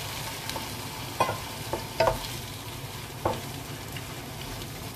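Sliced tomatoes and onions sizzling in hot oil in a black pan as a wooden spatula stirs them, with a few short knocks and scrapes of the spatula against the pan.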